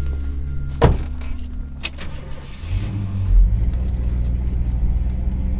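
Two sharp knocks about a second apart, then an old car's engine starts about three seconds in and runs steadily.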